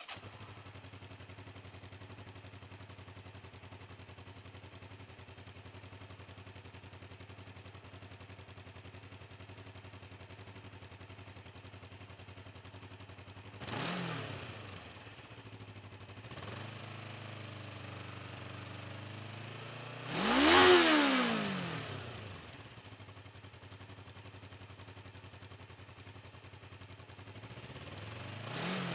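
Stock exhaust of a 2008 Kawasaki Ninja 500R's parallel-twin engine firing up and settling into a steady idle, then revved: a short blip about halfway through, a bigger and louder rev a few seconds later that climbs and falls back to idle, and another rev starting near the end.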